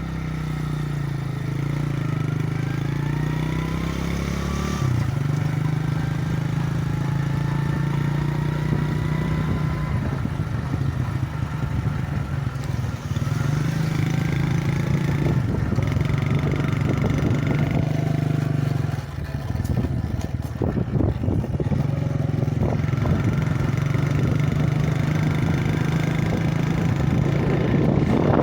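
Motorcycle engine running under way, a steady drone that rises and falls with speed, with a brief drop about two-thirds of the way through.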